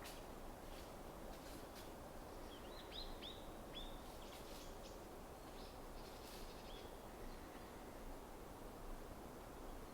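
Small songbirds giving a quick run of short, high, downward-sliding chirps a few seconds in, with a few scattered faint ticks, over a steady low background hum.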